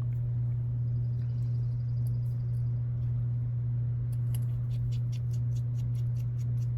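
Steady low hum, with a run of light, quick clicks from about four seconds in, several a second, as of small parts or a tool being handled at the bench.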